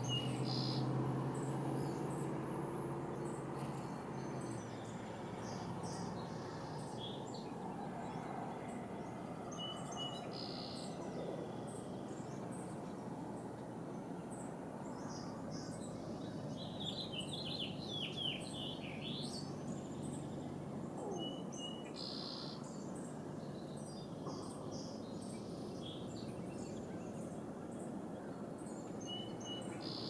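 Wild birds chirping and calling over a steady outdoor hiss, with a quick run of rising and falling chirps about two-thirds of the way through. A low hum fades out in the first few seconds.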